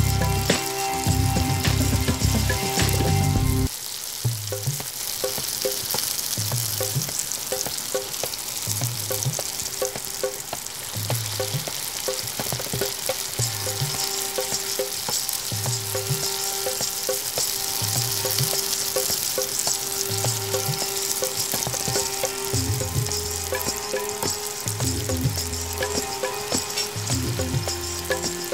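Chicken pieces deep-frying in hot oil, a steady sizzle of bubbling oil. Background music with a steady beat plays underneath, louder for the first few seconds.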